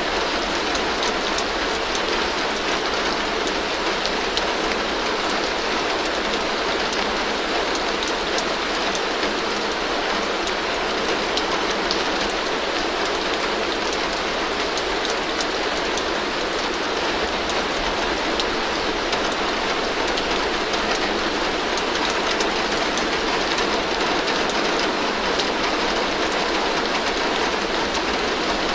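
Heavy rain falling steadily on a tin roof: a dense, even hiss with many small drop ticks on the metal.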